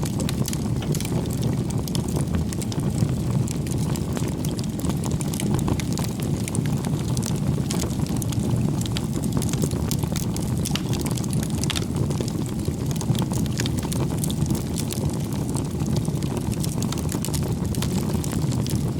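Campfire of burning firewood: a steady low rushing of the flames with frequent small crackles and pops from the wood.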